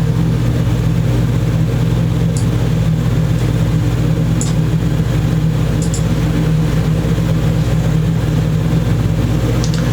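A steady, loud low hum from a running motor or electrical source, with a few faint, short ticks.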